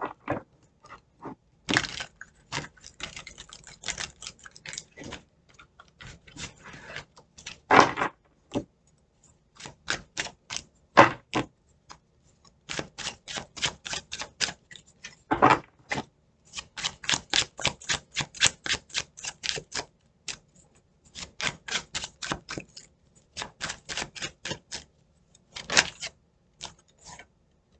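A deck of tarot cards being shuffled by hand: runs of quick clicking snaps, with a few louder slaps among them.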